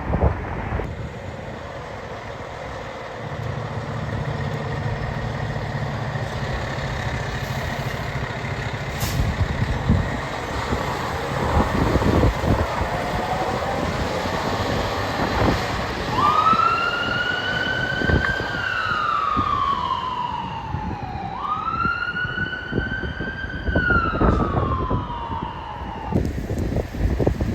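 Emergency vehicle running past with engine and road noise. From about two-thirds of the way in, its siren wails, rising quickly and then falling slowly, twice.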